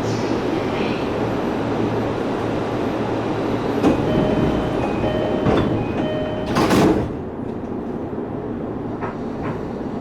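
Keiyo Line commuter train running between stations, heard from inside the car: a steady rumble of wheels and motors with a low hum. A few thin whining tones come in briefly near the middle, followed by a short loud rush about six and a half seconds in, after which the running noise is a little quieter.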